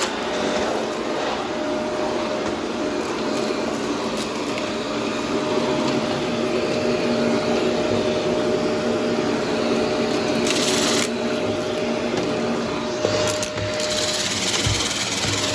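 Vacuum cleaner running steadily with a constant motor whine, with brief bursts of louder high-pitched hiss about ten seconds in and again near the end.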